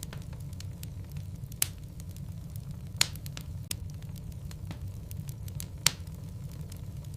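Wood logs burning in a fireplace: a steady low rumble of flame with constant small crackles, and three sharp, louder pops spread through.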